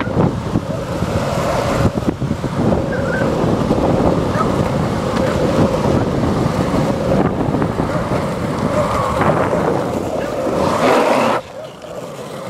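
Longboard urethane wheels rolling fast on asphalt with wind buffeting the microphone, a steady rushing noise with a faint hum. It drops off suddenly near the end, leaving a quieter hiss.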